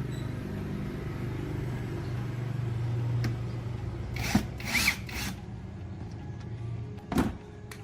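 A small electric motor running steadily, like a handheld power tool, with a few short scrapes about halfway through and a knock near the end, when the hum stops.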